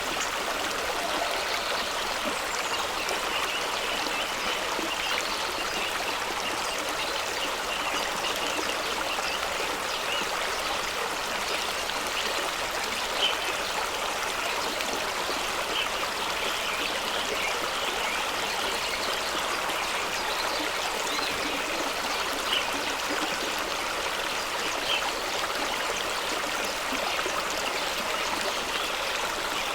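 Fast-flowing stream rushing and splashing over rocks at a small waterfall, a steady rushing sound with occasional brief splashes.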